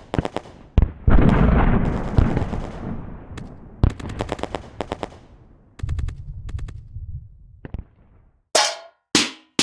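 Recorded automatic gunfire sound effects: several separate bursts of rapid shots, with one heavy blast about a second in that rings out for about two seconds. After a short gap near the end, a few sharp, bright impacts begin.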